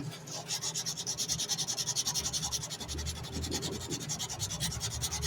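Sandpaper rubbed by hand back and forth along a steel knife blade in quick, even strokes, about six or seven a second: hand sanding out the grinding marks on a blade still in its annealed, unhardened state.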